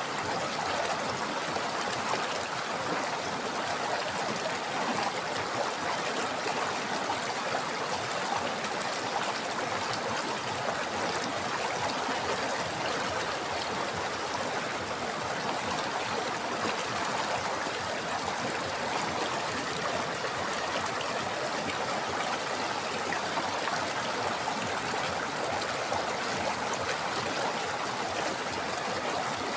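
River water running over rocks: a steady, even rush of flowing water.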